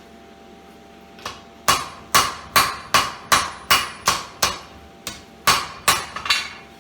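Blacksmith's hand hammer forging hot square steel bar on an anvil: about a dozen ringing blows at roughly two a second, starting about a second in, with one softer blow near the middle.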